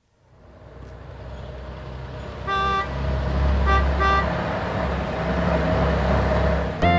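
Vehicle sound effect: a low engine rumble fades in and builds, with a horn tooting once and then twice in quick succession.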